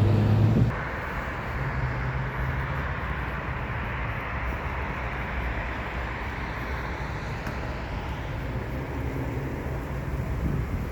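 Steady rushing noise of a moving vehicle or road traffic, with a low hum underneath.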